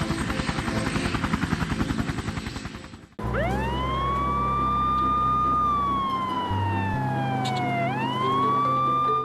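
A helicopter's rotor chops rapidly and fades out over the first three seconds. A police siren then wails: it rises quickly, holds, glides slowly down and rises again near the end.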